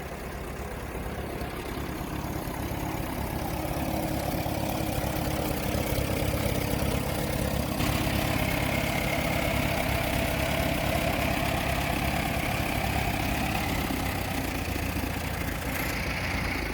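An engine idling steadily, getting a little louder over the first few seconds and then holding even.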